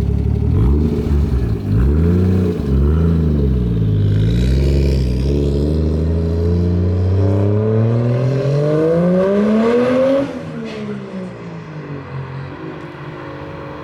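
Lexus SC400's turbocharged 1JZ VVT-i straight-six running through an HKS Carbon Ti exhaust: a few quick revs in the first couple of seconds, then the revs climb steadily in one long pull until about ten seconds in, when the note falls away suddenly and it goes quieter.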